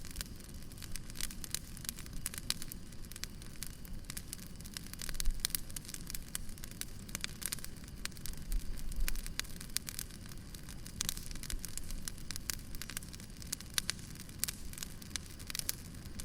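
Wood fire burning, crackling with dense, irregular sharp pops over a low rumble of flame, with a few louder pops about five seconds in and again around eight to nine seconds.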